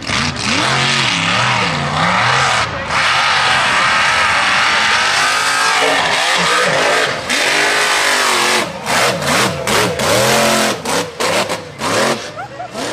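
Mega mud truck's engine revving hard, its pitch climbing and falling again and again. It turns choppy with quick throttle bursts from about nine seconds in.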